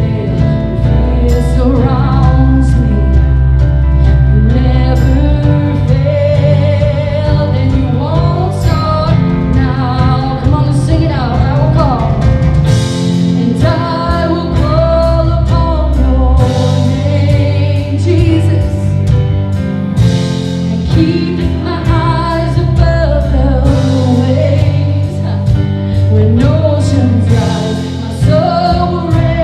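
A live church worship band playing with singing: a sung melody over sustained bass, with drums and cymbals.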